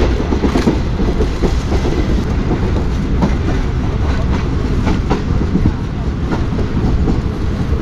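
Running noise of a moving passenger train heard from inside the coach: a steady rumble with scattered rattles and clicks from the wheels and car body.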